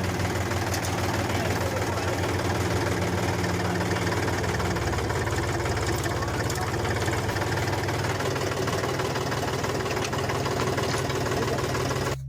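Tractor engine running steadily with a low, even, pulsing beat.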